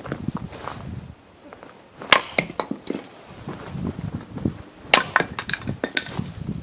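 Axe splitting firewood logs: two sharp strikes about three seconds apart, each followed by a quick run of knocks as the split pieces fly off and land.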